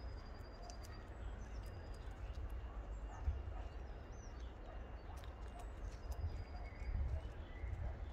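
Small birds chirping now and then, in short high notes, over a steady low rumble.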